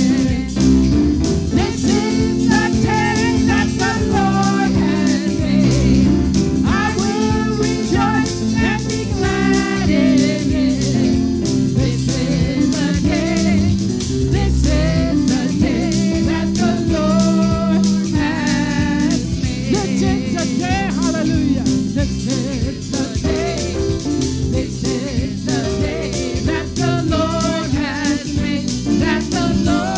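Gospel song: singing over instrumental accompaniment with a steady beat.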